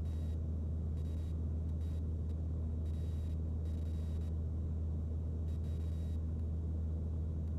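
Mooney M20C's four-cylinder Lycoming engine and propeller droning steadily in the cabin, an even low hum with no change in pitch.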